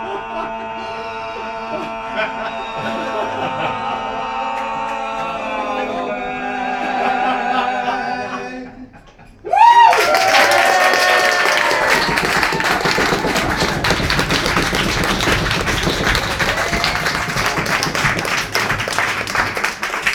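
A live song's final note held by voice and accompaniment, fading out about nine seconds in. A short whoop follows, then the pub audience bursts into loud applause and cheering that keeps going.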